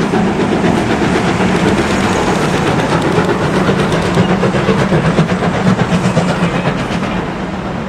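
A passing train's coaches rolling along the track, the wheels clicking over the rail joints, easing off slightly near the end.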